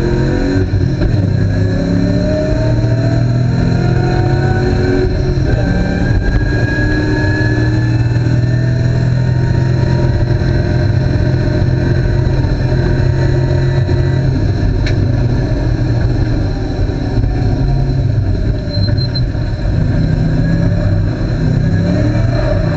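Ford Mustang V8 heard from inside the cabin under full racing load, its pitch rising as it accelerates hard up to high speed. It eases off briefly about two-thirds of the way through, then pulls hard again near the end.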